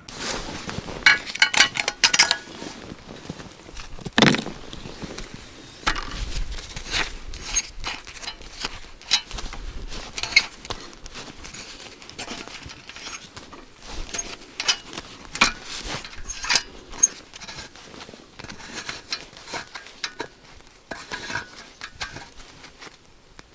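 Irregular clinks, taps and knocks, with a few louder strikes near the start and about four seconds in.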